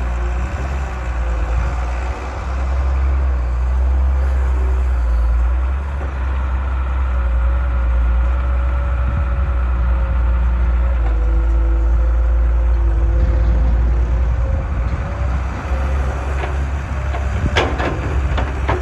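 Diesel engines of a JCB 3DX backhoe loader and an Eicher 480 tractor running steadily while sand is loaded, with a faint drifting whine over the engine rumble. A few sharp knocks come near the end.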